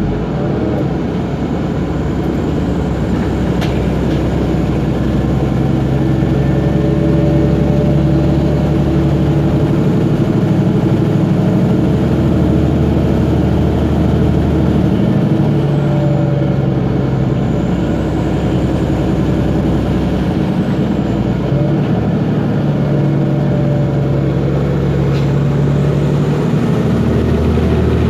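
Otokar Kent LF city bus's Ford Ecotorq diesel engine running under way, its pitch stepping up and down several times as the bus speeds up and slows. A faint high whine from the Voith DIWA automatic gearbox rises and falls along with it.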